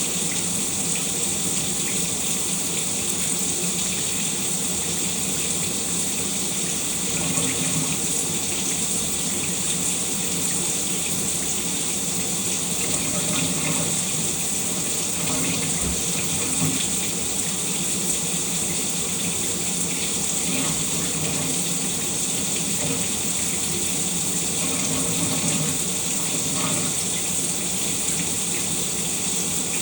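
Shower running steadily: a constant spray of water.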